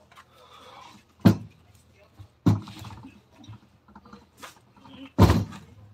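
A few sharp knocks, three of them loud and spaced a second or more apart, with softer taps between.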